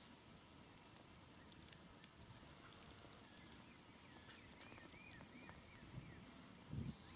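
Faint crackling of a smoldering campfire: scattered small pops and snaps. A bird repeats short chirps in the second half, and a brief low rumble comes near the end.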